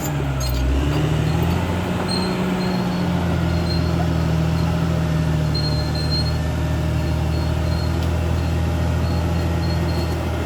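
CAT D6R XL bulldozer's diesel engine running steadily. Its pitch dips briefly near the start and picks back up about a second in. Faint high squeaks come and go over it.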